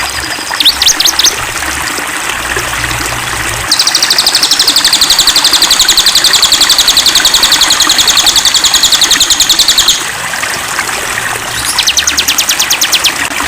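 Songbirds singing over a flowing stream: a long, fast trill of high repeated notes lasts about six seconds in the middle, with shorter rapid note series near the start and the end.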